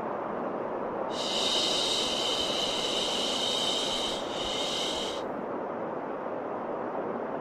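Steady white noise with a person's 'shhh' shushing laid over it to soothe a baby: one long shush starting about a second in and lasting some three seconds, then a shorter one right after.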